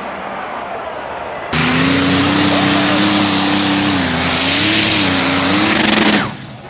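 A competition pulling tractor's engine running flat out under load: very loud, with a steady, slightly wavering pitch and a heavy hiss over it. It starts abruptly about a second and a half in and cuts off abruptly near the end.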